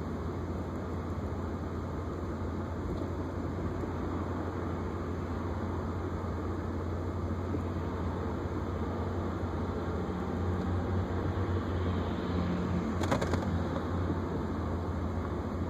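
BMW E36's M52 straight-six idling roughly when fully warm, its steady hum swelling a little louder about ten seconds in, with a brief click near the end. This is the hot-engine rough idle with fluctuating revs and whole-car vibration that the owner suspects is a dirty idle control valve, an O2 sensor or the MAF sensor.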